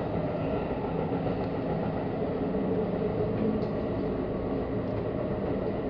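Tokyu Meguro Line electric commuter train running along the track, heard from inside the carriage: a steady rumble of wheels on rail with a low steady hum.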